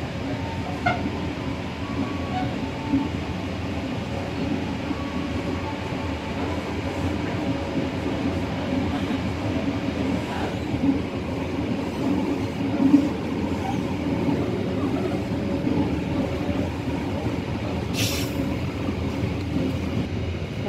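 Local passenger train running between stations: a steady low rumble of wheels and coaches on the rails, with occasional light knocks and one brief sharp noise near the end.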